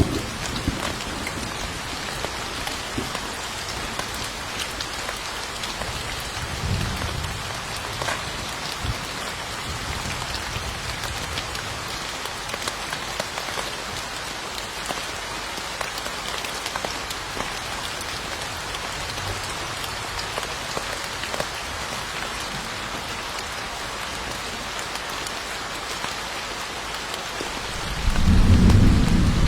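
Steady heavy rain hissing and pattering, with a low rumble of thunder about seven seconds in and a much louder rolling rumble of thunder breaking in near the end.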